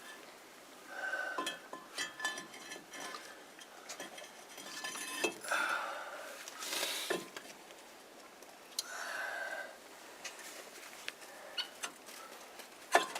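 Scattered light metallic clinks and knocks, as of hand tools on truck brake and wheel-hub parts, with a few short bird calls from the farm poultry in between.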